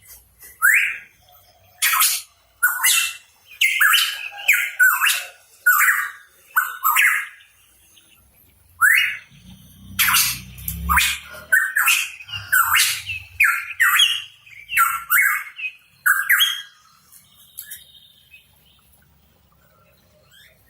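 Pitohui calling in two rapid bouts of short, loud notes, many of them quick upward slurs, with a pause of about a second between the bouts. The calls stop a few seconds before the end.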